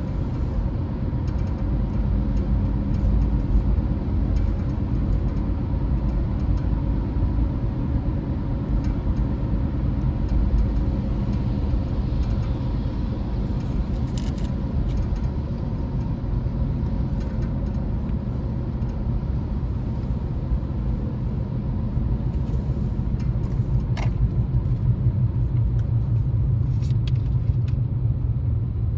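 A car driving along the streets: a steady low road and engine rumble with a few faint clicks.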